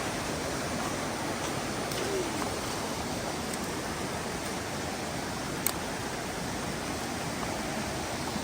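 Mountain stream rushing over rocks: a steady wash of flowing water, with one sharp click about five and a half seconds in.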